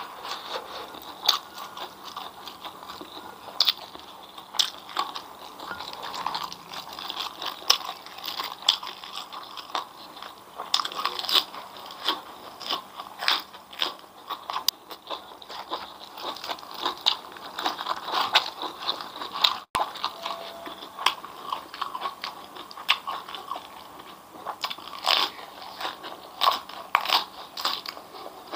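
Close-miked chewing and crunching of crisp food, deep-fried grasshoppers and raw vegetables, with many sharp, irregular crunches.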